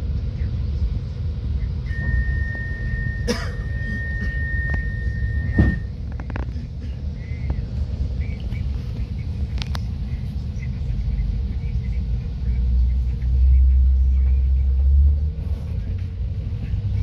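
Passenger train's low running rumble heard from inside the carriage as it pulls slowly out of a station. A steady high tone sounds for about four seconds, starting about two seconds in, along with a few sharp clicks. The rumble swells for a couple of seconds near the end.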